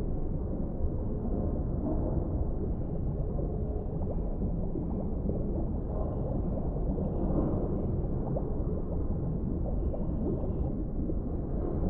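Underwater ambience: a steady, muffled low rumble of deep water with slow gentle swells and no distinct events.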